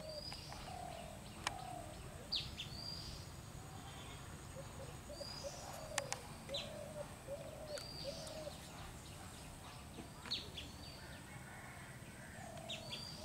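Birds calling: short high chirps recurring every second or two, and a lower arched call repeated in a quick series about halfway through. A few faint clicks sound over a steady low background.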